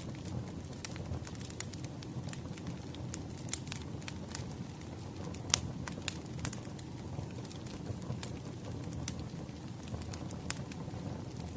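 Burning firewood crackling: irregular sharp pops and snaps over a low, steady rumble of flames, with one louder pop about halfway through.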